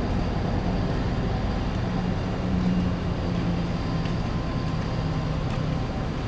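Steady vehicle engine and road noise, a low hum that swells briefly about two seconds in and then settles.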